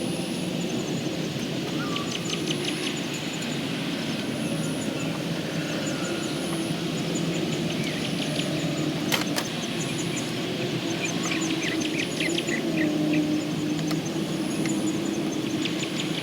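Birds chirping in repeated short trills over a steady low hum, with one sharp click about nine seconds in.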